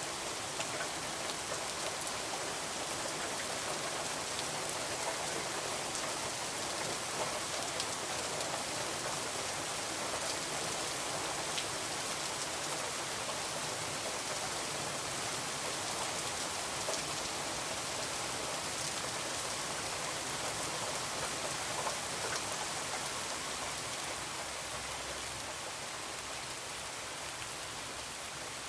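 Heavy rain falling steadily: an even hiss with faint scattered ticks of drops.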